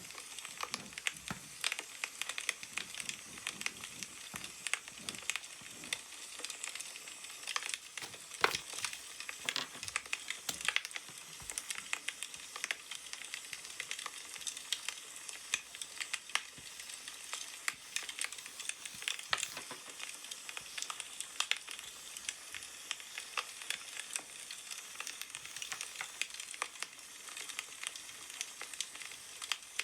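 Wood fire crackling: a dense, steady run of small irregular pops and snaps, with a few louder pops along the way.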